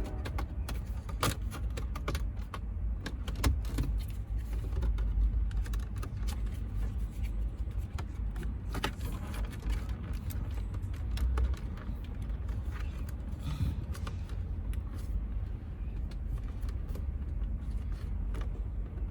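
Scattered clicks and knocks of hands and tools working at a tight plastic dashboard trim panel, over a steady low rumble.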